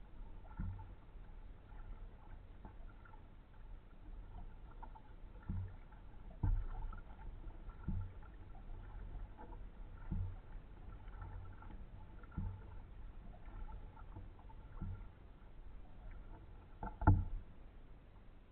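Kayak paddle strokes in the water: a low thud with a splash roughly every two seconds, unevenly spaced, with one much louder knock near the end.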